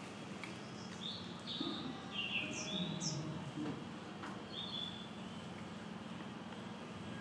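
Small birds chirping: a handful of short high chirps from about a second in to the middle, with two quick falling whistles about three seconds in, over a low steady background murmur.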